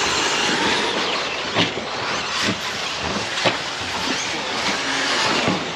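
Electric 1/10-scale RC race trucks running on a dirt track: a steady whirring, tyre-noise haze with three sharp knocks from landings or hits.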